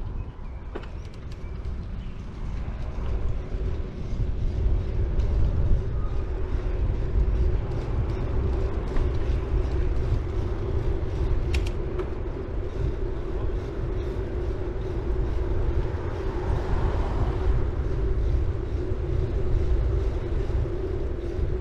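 City bike being ridden along a road: steady tyre and wind rumble on the action-camera microphone under a constant hum, with scattered small clicks and rattles from the bike, one sharper click about halfway through.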